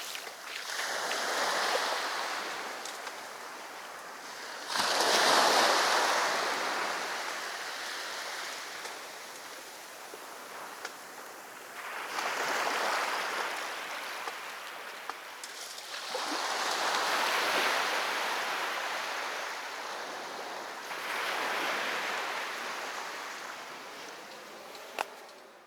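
Sea waves breaking on a beach, swelling and washing back every four to five seconds; the loudest wave crashes in suddenly about five seconds in. The sound fades out just before the end.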